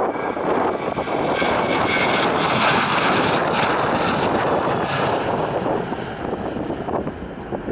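Airliner's engines passing close by, swelling to a peak a couple of seconds in with a brief high whine, then fading.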